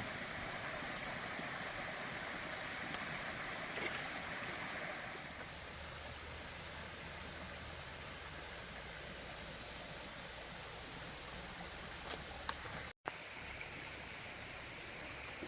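A steady, high-pitched insect chorus, over a hiss like running water that fades about five seconds in. The sound drops out briefly near the end, then the insects carry on with a few faint clicks.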